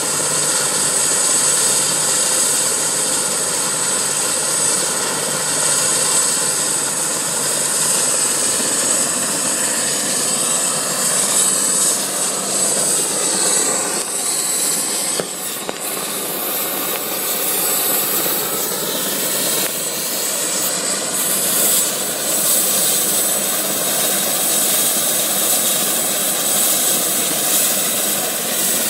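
Medical helicopter running close by: a high steady turbine whine over the engine and rotor sound. Its tones bend and shift for a few seconds around the middle, then settle again.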